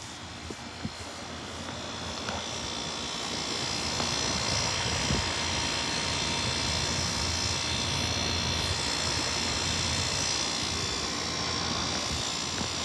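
Outdoor central air-conditioner condenser unit running: a steady drone of fan and compressor with a constant hum. It grows louder over the first few seconds, then holds level.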